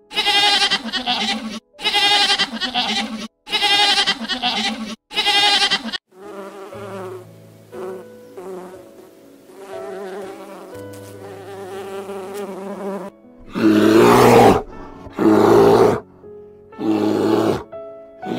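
A goat bleats four times in long, wavering calls. Then bees buzz, the pitch shifting up and down. Near the end a brown bear gives three loud growls.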